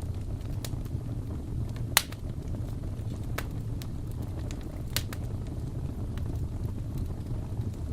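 Crackling wood fire: a steady low rumble of burning with sharp pops scattered through it. The loudest pop comes about two seconds in and another about five seconds in.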